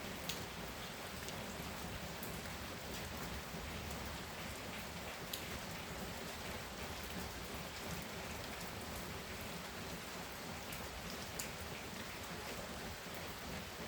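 Heavy rain pouring steadily, with scattered sharp drop hits on a surface standing out here and there.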